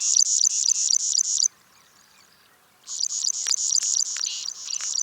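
Plain prinia calling: a fast run of high, evenly repeated notes, about seven a second, that breaks off about a second and a half in and starts again near the three-second mark.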